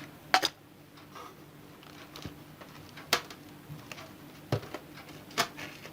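A few scattered light clicks and knocks from hands working a bonsai pot and its fresh soil during repotting, over a faint steady hum.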